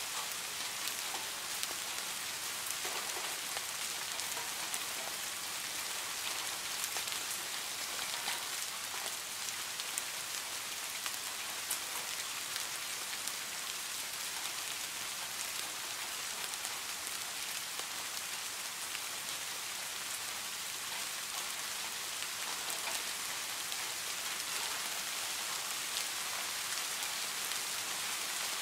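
Steady rain falling: an even hiss with many scattered ticks of individual drops.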